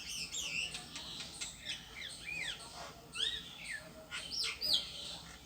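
Songbird singing: a fast, varied run of short chirps and up-and-down whistled notes.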